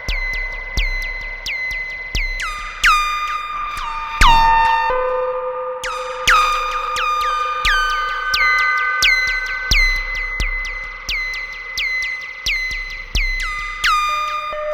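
Modular synthesizer sequence of short, bright pitched notes, about two a second, each starting with a quick downward pitch drop and trailed by echoes. About four seconds in, one note sweeps steeply down, followed by a brief gap before the sequence carries on.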